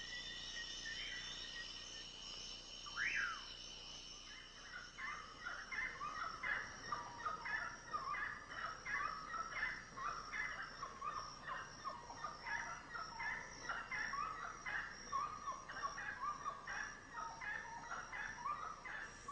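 Rainforest ambience: a steady high buzz of insects, one sweeping call about three seconds in, then from about five seconds on a rapid, chattering series of animal calls.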